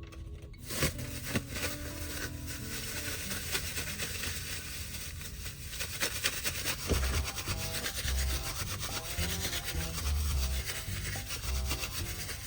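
A plastic bag being rubbed and kneaded by hand, a steady scrunching and rubbing, with soft background music underneath.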